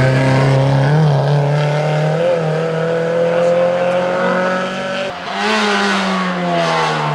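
Rally car engine running hard at high revs on a tarmac stage. There are quick blips at about one and two seconds in, a short lift just past five seconds, and then the revs fall steadily.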